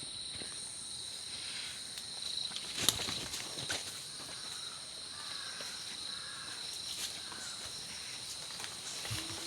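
Insects, crickets or similar, chirring steadily in two high-pitched tones over a faint even hiss, with a couple of sharp clicks about three seconds in.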